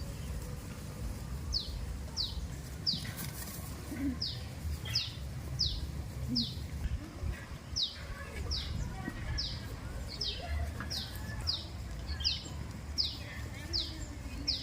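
A small bird calling over and over: short, high notes that each sweep downward, about one to two a second, with a brief pause about halfway through.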